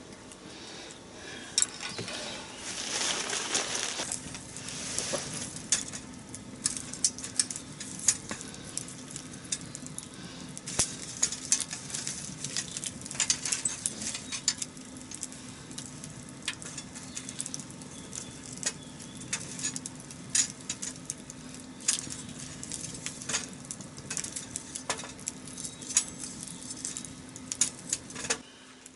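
Wood fire crackling in a fire pit as a load of disposable wooden chopsticks catch and burn, with irregular sharp pops throughout and a rushing hiss of flame a couple of seconds in.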